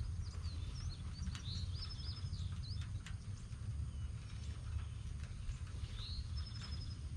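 Birds chirping in short high calls, in a cluster in the first couple of seconds and again near the end, over a steady low rumble, with a few faint ticks.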